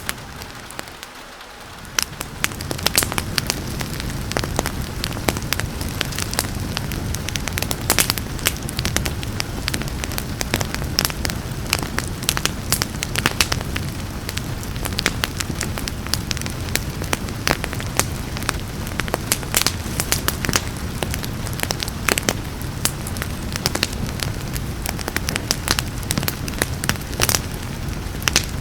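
Wood fire crackling with frequent sharp pops and snaps over a steady low rumble, mixed with a soft hiss of rain. The sound dips briefly about a second in, then carries on evenly.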